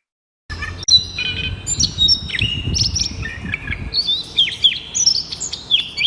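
Several birds chirping and whistling together in many short, overlapping notes, some sliding sharply downward, with a low rumble under the first few seconds.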